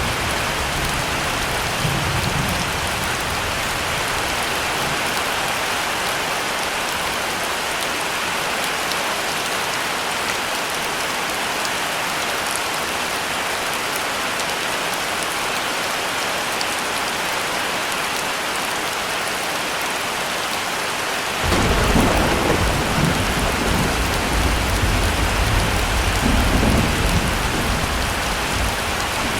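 Heavy rain falling steadily. About two-thirds of the way through, a deep thunder rumble comes in suddenly and rolls for several seconds before fading.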